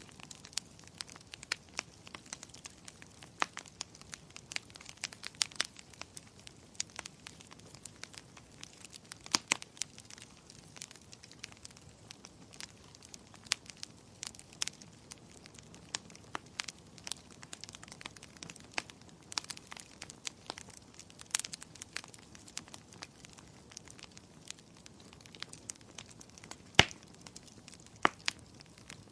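Fire in a fireplace crackling: a steady run of irregular sharp pops and snaps over a soft hiss, with one louder pop near the end.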